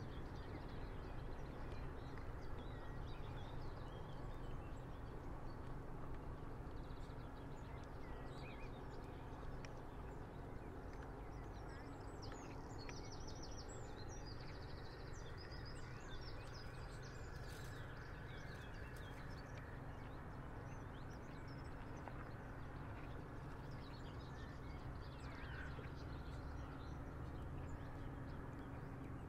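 Quiet river ambience: a steady low hum under a soft wash of noise, with scattered water-bird calls. A quick run of high calls comes about halfway through.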